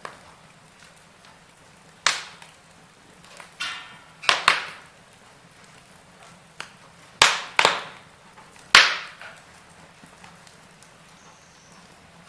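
Wood fire in a fireplace crackling, with a handful of sharp, irregular pops over a faint steady hiss of burning, the loudest about two seconds in, at four and a half seconds and near nine seconds.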